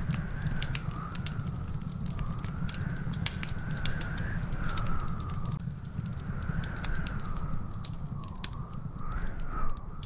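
Wood fire crackling in a fireplace, with frequent sharp pops and a steady low rumble. A high whistling tone slowly rises and falls throughout.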